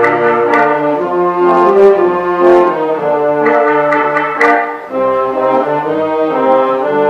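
Concert wind band playing, with sustained brass chords and regular percussion strikes; the sound dips briefly just before five seconds in, then the band comes back in.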